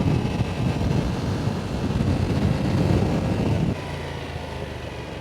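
Wind rushing over the microphone with a Yamaha R7's parallel-twin engine running underneath while riding. The loud low rumble drops off abruptly about three and a half seconds in, leaving a quieter steady hum.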